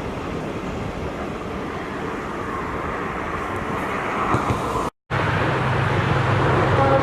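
Steady rushing noise of rail traffic, broken by an abrupt cut about five seconds in. After the cut a diesel locomotive's low engine drone takes over, and its horn starts to sound right at the end.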